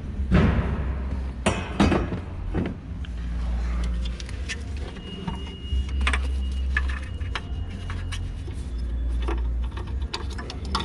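Knocks and metallic clinks of tools and engine parts being handled during intake-manifold removal, with a few louder knocks in the first three seconds and lighter clicks after, over a steady low hum.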